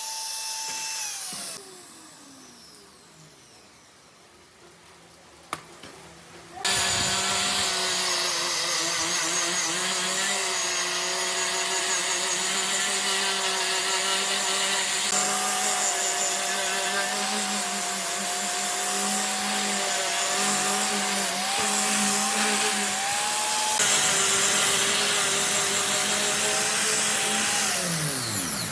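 Electric power tool motor whining as it spins down about a second in. It starts up again after a few seconds' pause, runs steadily for about twenty seconds, and spins down again near the end.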